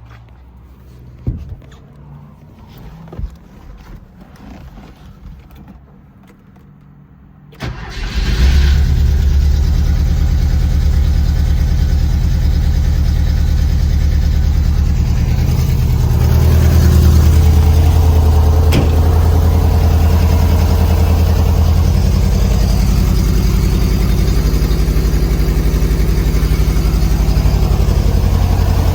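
A 1975 Porsche 914's air-cooled flat-four engine started from cold. After a few faint knocks, the starter cranks briefly about seven and a half seconds in, the engine catches at once and settles into a steady idle. It runs somewhat louder for several seconds in the middle.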